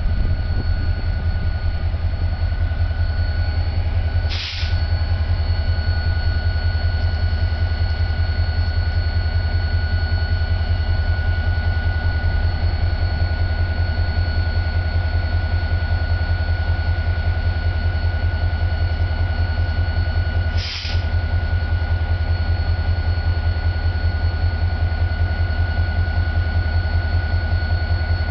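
Diesel locomotive engine running steadily close by: a deep, pulsing throb with a steady high whine over it. The sound dips for a moment twice.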